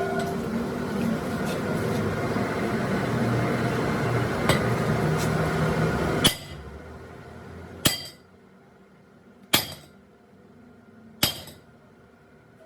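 A steady mechanical running noise for about six seconds, ending with a sharp knock. Then three evenly spaced sharp metallic hammer blows on metal.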